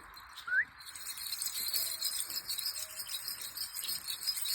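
A flock of small birds twittering: one short rising chirp about half a second in, then many thin, very high calls overlapping in a dense, continuous chatter.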